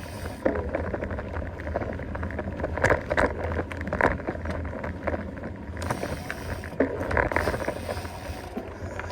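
Mountain bike riding along a woodland dirt trail: tyre noise with many short clicks and rattles from the bike, over a steady low rumble of wind on the microphone.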